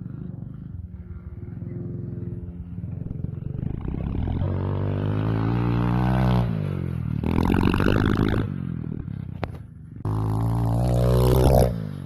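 Stomp 110cc pit bike's small four-stroke single-cylinder engine revving in three rising bursts as it accelerates, the throttle shutting off between them.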